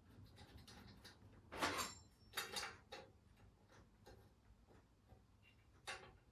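A handful of faint metal clicks and clatters as the guard is handled and fitted on a vintage band saw. The loudest comes about one and a half seconds in, with a few more after it and one near the end.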